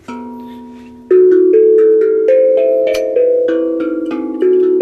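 Steel tongue drum (glucophone) played by hand: a soft first note, then from about a second in a louder run of struck notes, each ringing on and overlapping the next in a slow melody.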